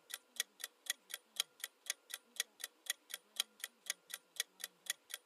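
Countdown timer sound effect ticking rapidly and evenly, about five ticks a second, counting down the answer time on a quiz question.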